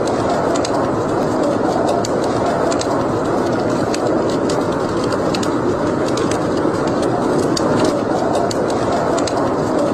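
Wood fire burning in a fireplace: irregular sharp crackles and pops over a steady rushing noise.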